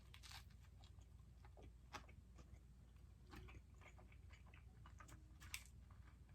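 Faint chewing with scattered soft mouth clicks, the loudest about two seconds in and again near the end.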